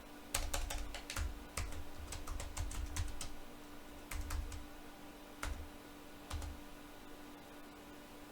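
Computer keyboard keystrokes: a quick run of typing in the first few seconds, then a few single key presses, over a faint steady hum.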